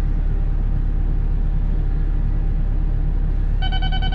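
Cat 313 excavator's diesel engine running steadily. About three and a half seconds in, a rapid electronic beeping starts: the grade-control system's audible guidance tone.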